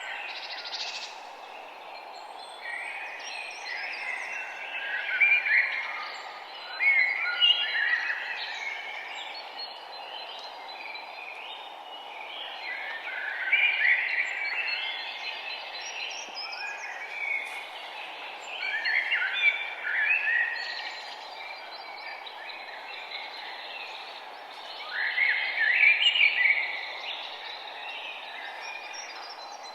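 Songbirds singing, with bursts of busy, warbling phrases every few seconds over a steady background hiss.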